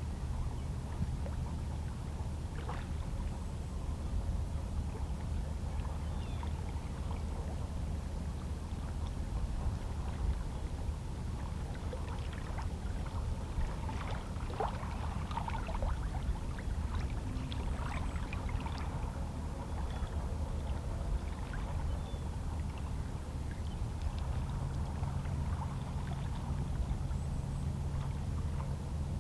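Calm sea waves lapping and splashing gently against shoreline rocks, with small splashes clustered around the middle, over a steady low hum.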